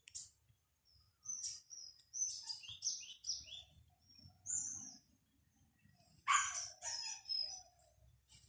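Wild birds chirping and singing in a string of short, high calls, with the loudest burst about six seconds in.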